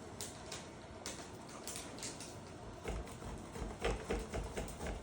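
Handheld adjustable cheese grater being handled, with scratchy clicks and knocks. About three seconds in these turn into a denser run of quick rasping strokes and low knocks as it is set down and worked.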